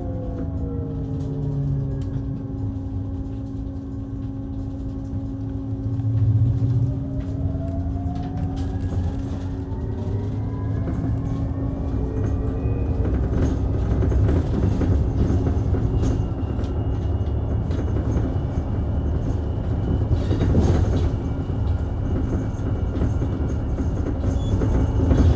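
Mitsubishi Fuso Aerostar Eco Hybrid city bus running, heard from inside. The electric drive's whine falls in pitch at first as the bus slows, then rises steadily from about seven seconds in as it pulls away again, over a steady hum and the low rumble of engine and road.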